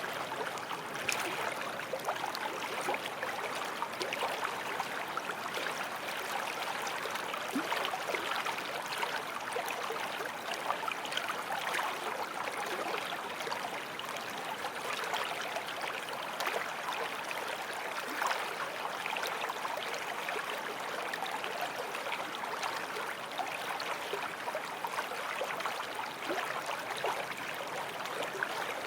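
Forest stream flowing over rocks: a steady babble of running water with small splashes throughout.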